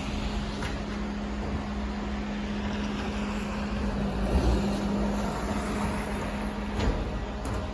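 Street-cleaning truck running steadily: a constant engine hum under a continuous hiss, with a faint knock near the end.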